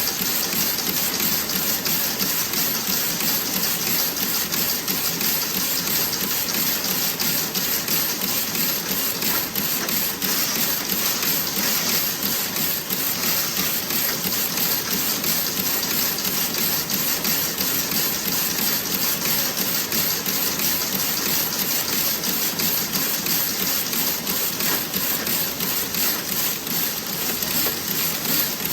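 Toe-sock knitting machine running: a fast, even, continuous clatter with no pause or change in pace.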